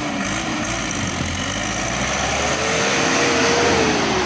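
Vehicle engine running steadily, with a whine that rises in pitch about halfway through and falls again near the end.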